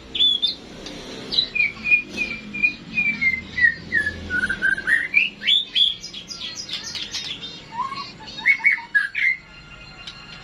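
White-rumped shama singing a varied run of clear whistled phrases: a slowly falling series of notes, then quick upswept notes, and a few lower notes near the end.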